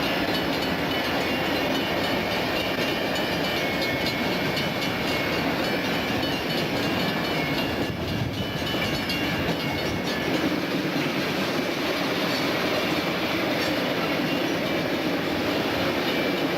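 Freight train rolling past: a steady rumble of railroad car wheels on the rails, with a faint high whine over it.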